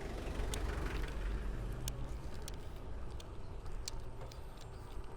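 Wind and road noise from riding a fixed-gear bicycle: a steady low rumble and hiss, with scattered small clicks and rattles.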